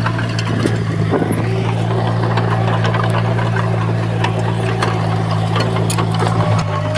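Diesel engine of heavy earthmoving machinery running at a steady, even speed, with scattered metallic clicks and clanks.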